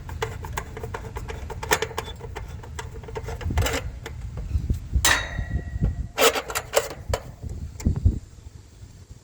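Clicks, taps and clanks of a nut driver and the sheet-metal service panel of a switched-off air-conditioning condenser being opened, with a ringing metallic clank about five seconds in, over a low background rumble.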